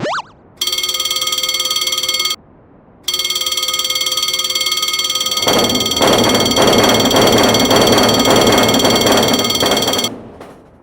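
Railroad crossing warning bell ringing steadily. It breaks off about two seconds in and starts again a moment later. From about five and a half seconds a passing train's rumble joins it, and both stop about ten seconds in.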